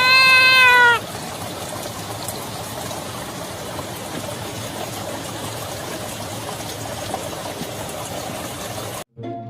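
A cat meows once, a long loud call that ends about a second in. After it comes a steady background hiss that cuts off abruptly near the end.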